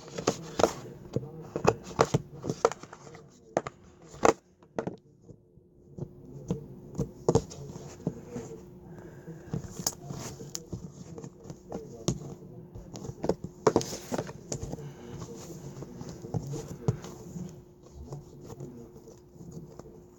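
Slime being squished and poked by hand, giving irregular sticky clicks and small pops.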